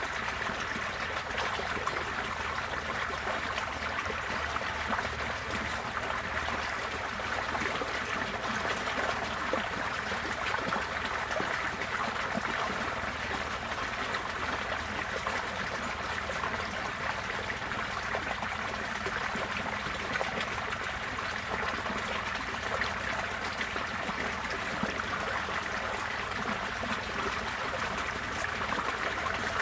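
Floodwater running steadily, an even rushing and trickling of flowing water as the flood recedes.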